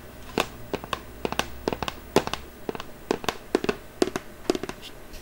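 ASMR tapping close to the microphone: a quick, irregular run of sharp taps and clicks, about four a second.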